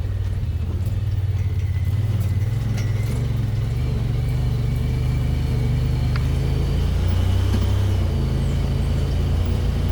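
Car driving slowly, its engine and road rumble heard from inside as a steady low drone that shifts in pitch now and then.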